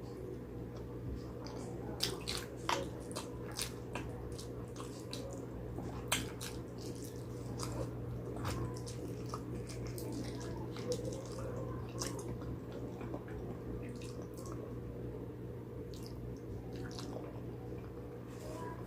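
Close-miked eating of spicy pig trotters: wet chewing and lip-smacking, with sticky clicks at irregular intervals over a steady low hum.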